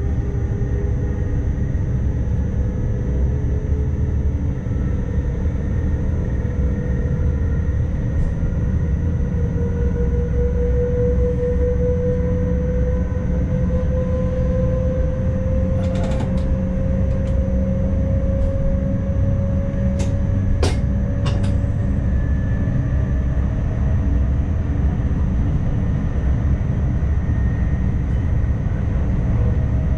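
ICMm electric intercity train running, heard from the driver's cab: a steady running rumble with a motor whine that slowly rises in pitch. A few sharp clicks come about two-thirds of the way through.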